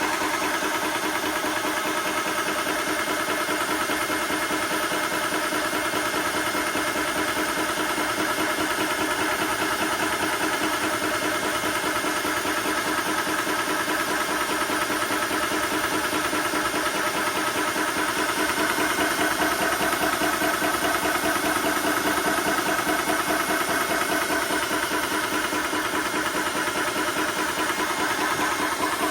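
TOAUTO A1X portable high-pressure air compressor running steadily, pumping an airgun up toward 4,000 PSI. It gets slightly louder about two-thirds of the way through.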